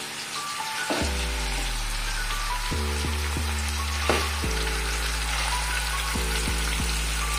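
Chilli-marinated chicken pieces sizzling as they fry in hot oil, under background music with slow, low bass notes.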